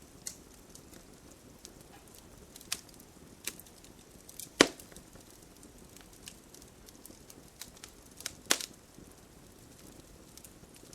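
Campfire burning with scattered crackles and pops over a low steady hiss; the loudest pop comes near the middle and another sharp pair about three-quarters of the way through.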